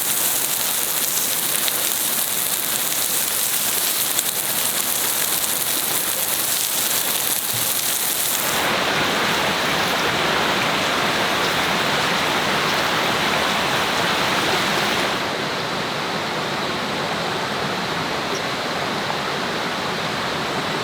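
Steady rush of running water, in three stretches that change abruptly about eight and a half seconds and fifteen seconds in.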